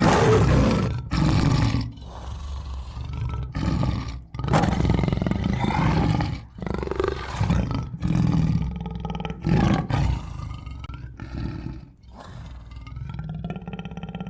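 Tiger roaring and growling in a run of loud, rough calls broken by short pauses, the first the loudest.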